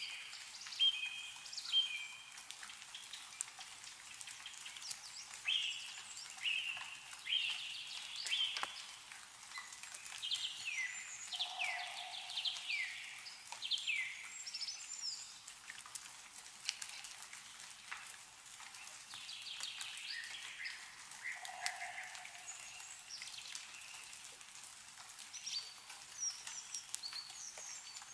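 Several songbirds calling and singing, with many short down-slurred notes, over scattered drips of meltwater falling from snow-laden trees.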